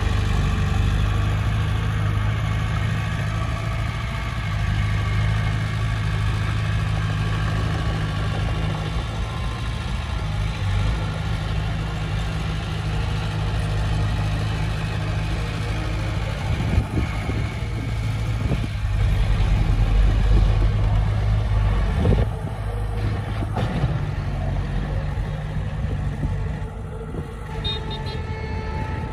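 Heavy diesel engine of earth-moving machinery, a bulldozer working with a dump truck, running steadily with a deep drone. A few clanks and knocks come about two-thirds of the way through, just after the engine grows louder for a few seconds.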